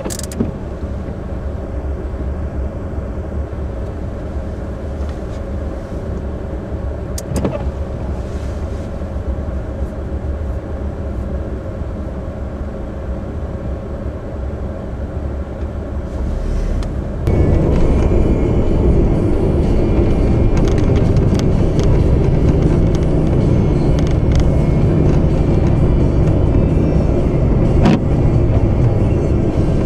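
Car driving on a snow-covered road: steady engine and tyre rumble. It becomes louder and rougher about seventeen seconds in.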